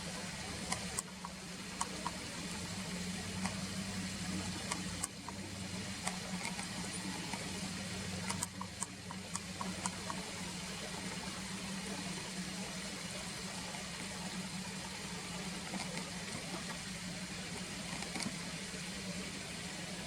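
Steady background noise: a low hum with an even hiss over it, broken by scattered faint clicks, mostly in the first half.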